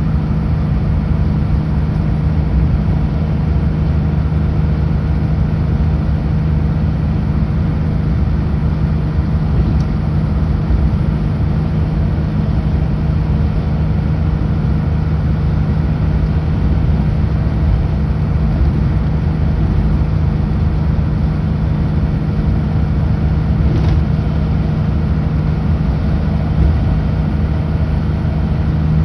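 Kenworth W900L semi truck's diesel engine running at a steady highway cruise, a constant low drone with road noise and no change in pitch.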